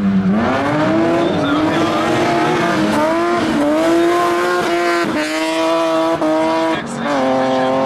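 BMW E36 race car's engine revving hard on a dirt track: its pitch climbs, holds high and drops back several times as the driver lifts and shifts through the corner.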